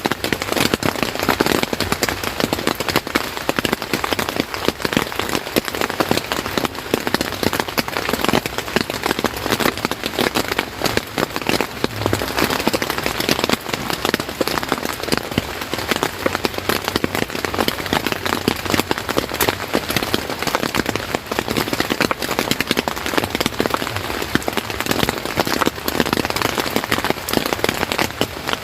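Steady, heavy rain falling on a surface, a dense mass of individual drops at an even level.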